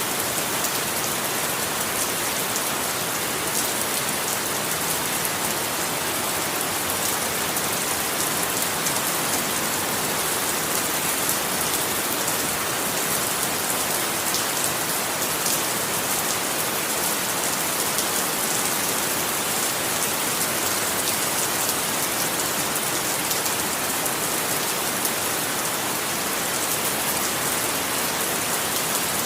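Steady rain: an even hiss of falling rain with many small drop patters, unchanging in level.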